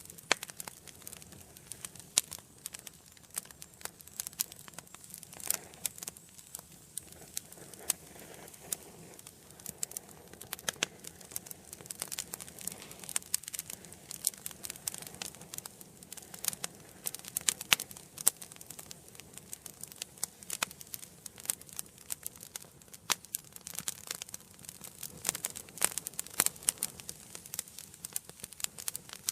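Wood fire burning in a fireplace, crackling and popping irregularly over a soft steady hiss.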